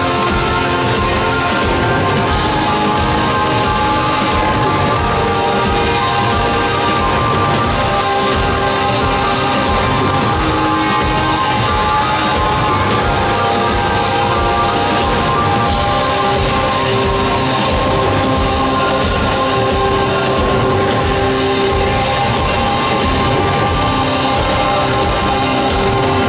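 Live rock band playing an instrumental passage with a steady beat and held chords, heard in a large hall.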